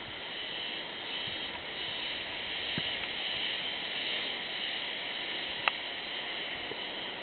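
A steady, shrill buzzing chorus, heard as early-season cicadas calling from woodland, though whether they are cicadas is in doubt. A single sharp click sounds about five and a half seconds in.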